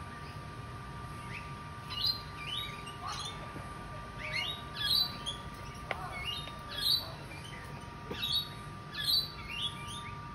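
Birds chirping and calling again and again in quick clusters of short, sharp notes, starting about a second and a half in, over a steady thin tone.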